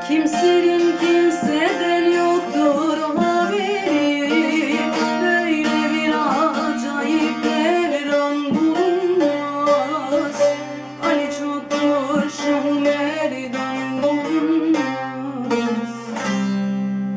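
Bağlama (saz) playing an instrumental passage: fast plucked melody over ringing open-string drones. It stops abruptly at the very end.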